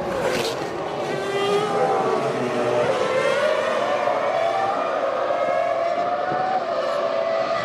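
Formula One car's V10 engine at high revs: the pitch drops sharply right at the start, then climbs steadily for several seconds as it accelerates.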